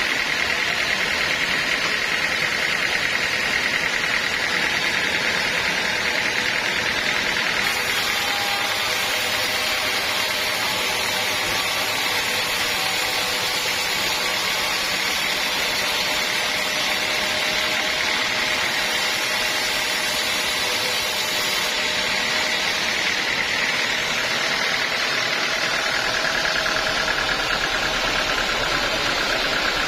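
Sawmill running steadily while sawing a teak log: an even, continuous machine noise with a hum in its upper range that drops slightly in pitch near the end.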